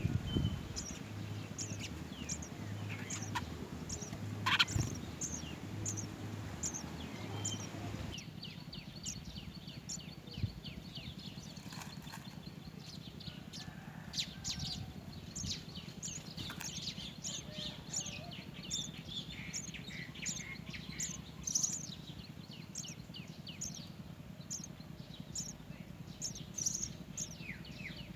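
House sparrows chirping: a rapid, steady string of short high-pitched chirps.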